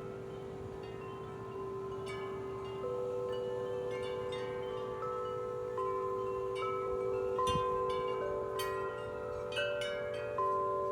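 Several sets of large tuned wind chimes ringing in strong wind, many long, overlapping tones struck irregularly and growing busier from about two seconds in. A brief low thud about seven and a half seconds in.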